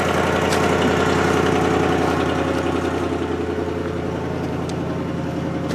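Motor vehicle engine idling steadily, swelling slightly early on and then settling a little lower.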